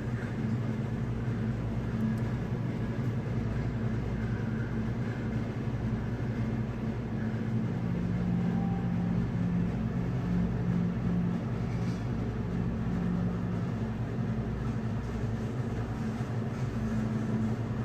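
A steady low mechanical hum with a few held pitches, like an engine running.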